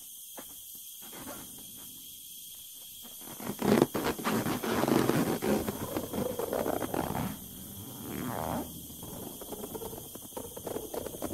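Taut rubber balloon creaking and squeaking under strain. It starts suddenly and loud about three and a half seconds in, eases off after about seven seconds, and swells briefly once more near eight seconds.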